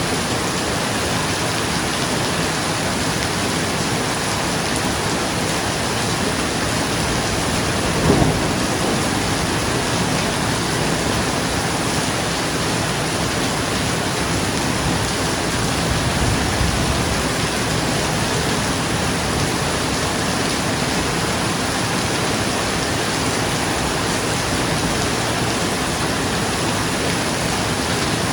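Steady rain falling on a roof, with a sudden crack of thunder about eight seconds in and a low rumble of thunder around the middle.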